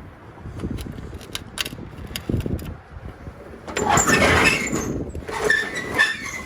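A storage unit's metal roll-up door is unlatched and raised: a few clicks, then a loud rattle of the door about four seconds in, followed by a squealing tone as it rolls up.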